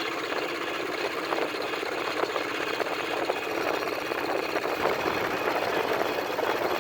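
Bulldozer engine running steadily, growing slightly louder toward the end.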